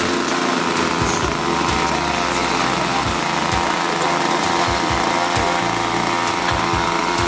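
PBY Catalina engine running steadily at a constant speed on a test run, with an even, unchanging pitch.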